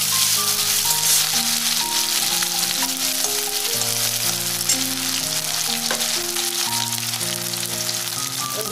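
Diced potato frying in hot mustard oil in a steel kadai: a steady sizzle.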